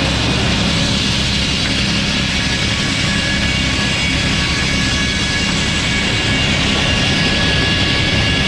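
Sawmill running steadily: a low engine drone under a thin, high whine from the saw, holding even throughout.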